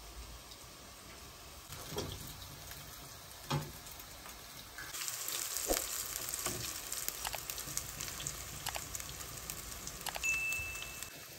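Grated-potato patties (potato kuku) frying in oil in a pan, sizzling and crackling, starting about five seconds in. A short high beep sounds near the end.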